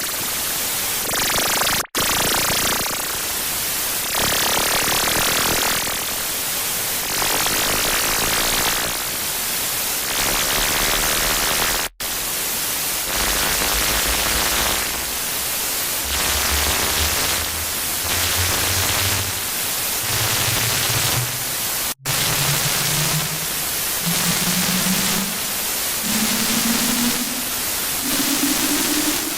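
Harsh noise track: loud static hiss pulsing in roughly one-second blocks, broken by very short silent gaps about every ten seconds. From about a third of the way in, a low tone climbs step by step, about one step a second.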